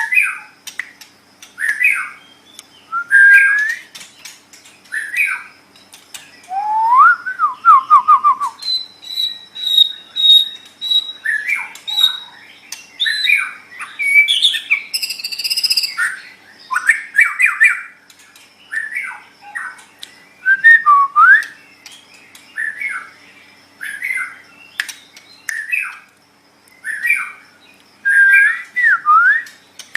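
White-rumped shama (murai batu) singing a varied string of short whistled phrases with rising and falling glides, a quick run of repeated notes, a held high note and sharp clicks, with brief gaps between phrases.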